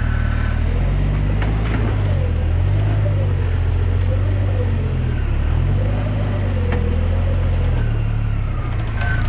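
Rock-crawling buggy on 43-inch tires, its engine revving up and down in repeated swells under throttle as it climbs. A couple of sharp knocks, about two seconds in and again near seven seconds.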